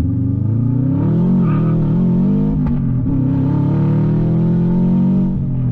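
Turbocharged Subaru flat-four running through a 3-inch catless open downpipe with no exhaust behind it, so it is very loud. The revs rise and fall about a second in, then climb steadily and drop off near the end.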